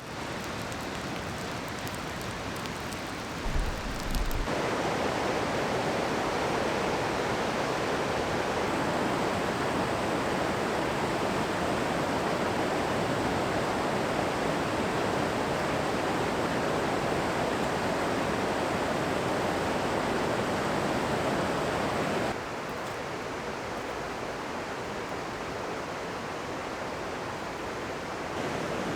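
River rapids: steady rushing whitewater. It gets louder suddenly about four seconds in, after a couple of brief low bumps, and drops back somewhat near the end.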